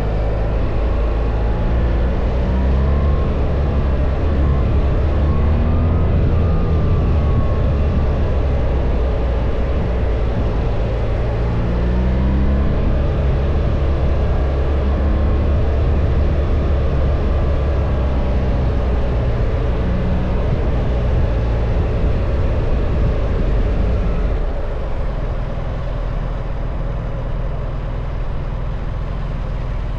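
BMW R1300 GS motorcycle's boxer twin engine running under way, its pitch rising and falling with the throttle, over heavy wind rumble. It gets a little quieter for the last few seconds.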